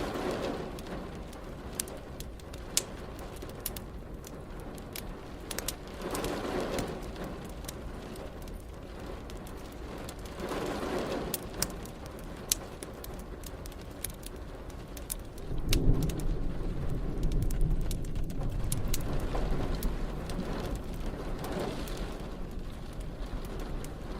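Steady rain with a fire crackling and popping throughout. A low rumble of thunder rolls in about two thirds of the way through and fades slowly.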